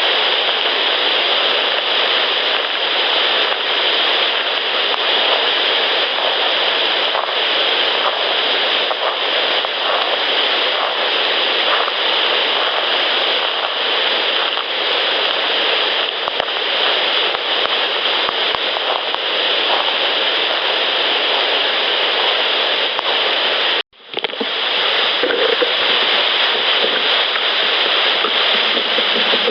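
Loud steady hiss with no clear separate events, cut off for an instant about three-quarters of the way through, then resuming.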